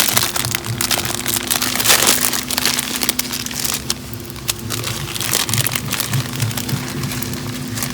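Wood fire crackling and popping in a small fire box: a dense, irregular stream of sharp cracks that runs without a break.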